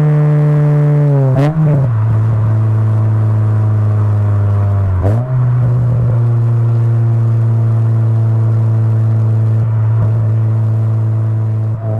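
Honda Prelude SiR's 2.2-litre H22A four-cylinder heard through a Skunk2 cat-back exhaust with a Spoon decat pipe, recorded at the tailpipe. The engine note falls off, breaks briefly with gear changes about one and a half and five seconds in, then holds a steady drone while cruising.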